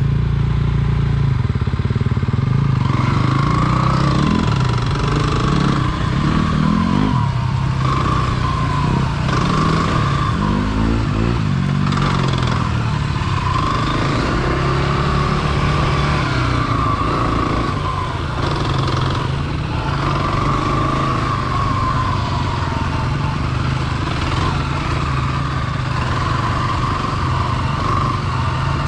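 Dirt bike engine running under way, its pitch repeatedly rising and falling as the throttle is opened and eased off, with several climbing revs.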